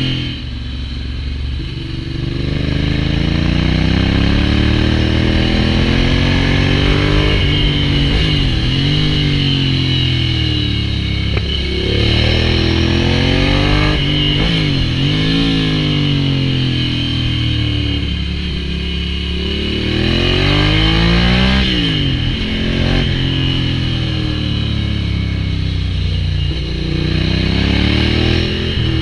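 Ducati Hypermotard 796's air-cooled L-twin through an SC-Project full exhaust, its revs climbing and dropping again and again.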